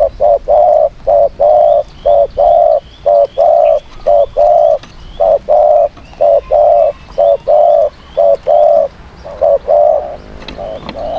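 Spotted dove cooing over and over: a long irregular run of loud, low coos, some clipped and some drawn out. Faint chirps of small birds sound higher up.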